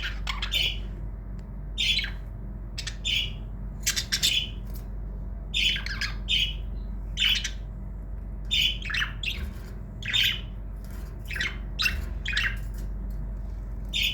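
Budgerigar giving short, rough calls over and over, one or two every second.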